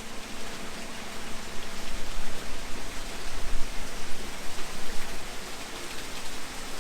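Strong gusting wind buffeting the microphone: a loud, rushing noise with low rumble that swells and eases, strongest two to four seconds in.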